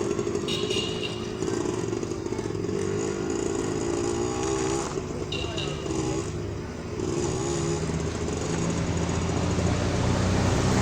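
A motorcycle engine running, its pitch wavering with the throttle, getting louder and deeper near the end.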